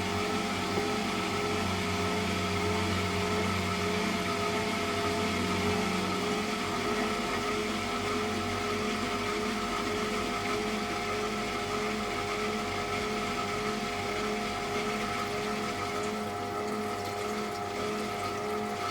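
Electrolux Wascator W355H commercial washing machine running mid-cycle: a steady motor and pump hum with several held tones. A deeper part of the hum drops out about six seconds in.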